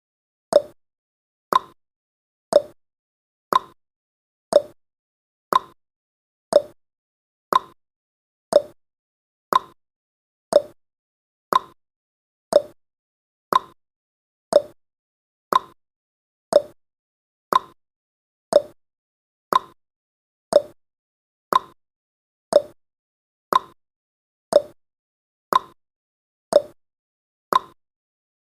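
Countdown timer's clock-ticking sound effect: sharp ticks at a steady one per second, alternating between two slightly different ticks like a tick-tock.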